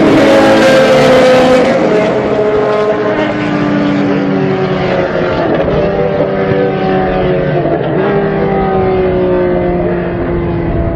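Group C prototype race car engine at high revs, passing close. It is loudest in the first second or so, then its note falls gradually in pitch and grows duller as the car draws away down the track.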